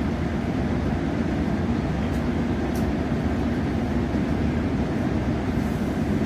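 Steady rumble and noise of a passenger train running along the line, heard from inside the carriage, with a couple of faint ticks about two to three seconds in.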